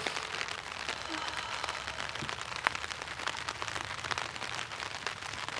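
Rain hitting an umbrella: a dense, irregular spatter of small drop taps.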